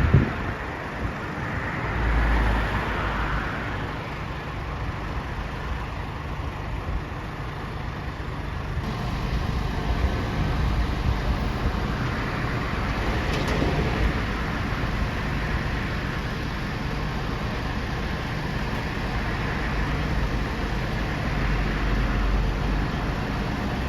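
Truck engine running steadily, with a low hum and a few brief swells in level.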